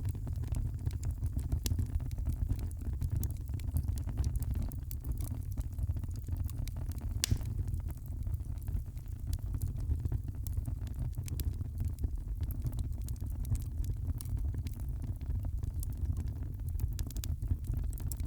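Wood fire crackling in a fireplace: a steady stream of small pops and snaps, with one sharper crack about seven seconds in, over a steady low rumble.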